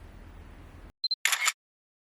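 Camera shutter sound: a short high beep, like a focus-confirm beep, followed by a quick shutter click, heard in dead silence after the outdoor background cuts off about a second in.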